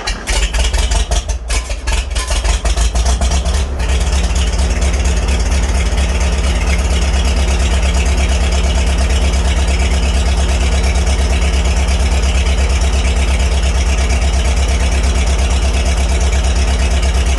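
1949 Farmall H's four-cylinder gasoline engine just after starting, firing unevenly for the first four seconds or so, then settling into a steady idle.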